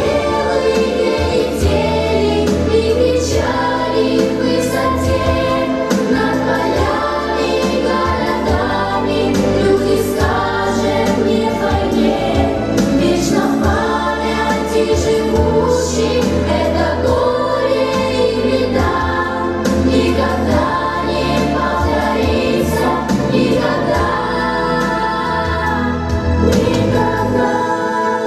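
A song with a choir of voices singing over a full instrumental backing.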